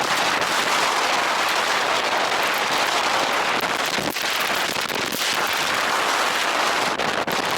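Blizzard wind blowing hard: a dense, steady rush that buffets the microphone, with a few sharp crackles in the gusts.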